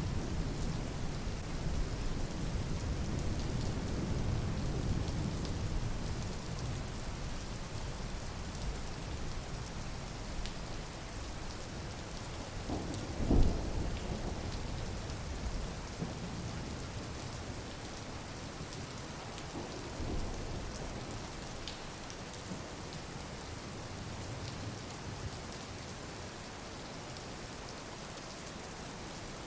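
Steady rain falling, with a low rumble that is stronger at first and slowly fades. A single sharp thump comes about halfway through, the loudest moment, and a weaker one follows some seconds later.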